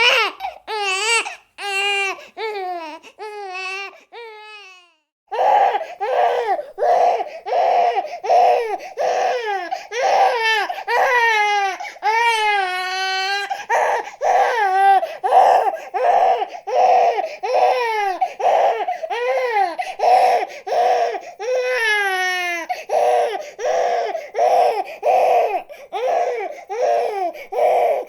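Baby crying in short rhythmic wails, about two a second, with a few longer drawn-out cries. The crying breaks off for a moment about five seconds in, then starts again.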